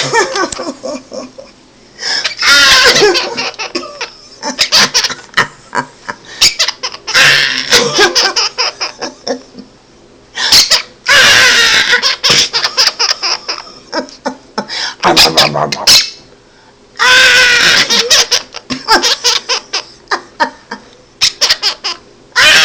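Quaker parrot giggling like a laughing baby, in about six bursts of rapid chuckles with clicking between them.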